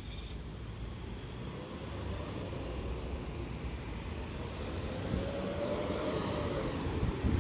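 Road traffic: a vehicle's rumble grows louder and passes close near the end, its tone dropping in pitch as it goes by.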